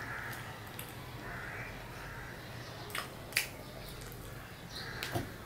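A person biting and chewing a ripe banana, with three sharp mouth clicks in the second half.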